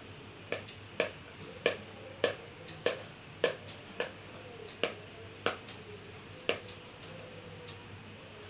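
A parrot drumming: about ten sharp taps in an even beat, a little under two a second, that stop about two seconds before the end.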